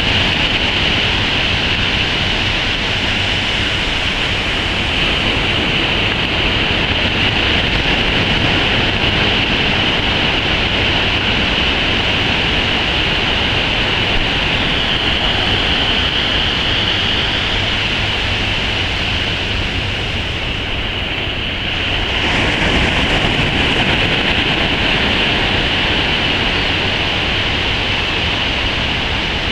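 Steady rush of ocean surf and wind buffeting the microphone, easing briefly about two-thirds of the way through.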